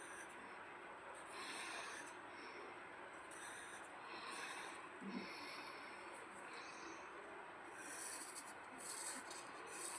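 Pencil strokes scratching and shading on paper: soft, faint swishes in irregular bursts of a second or so.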